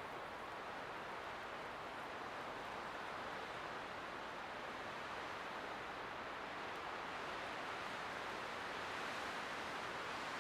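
Light wind blowing, a steady soft hiss that swells slightly toward the end.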